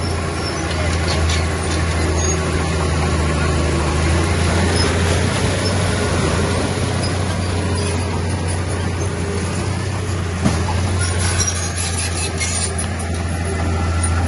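Heavy diesel engine of an earthmoving machine running steadily with a deep, even drone. Light metallic clicks and rattles come through about eleven seconds in.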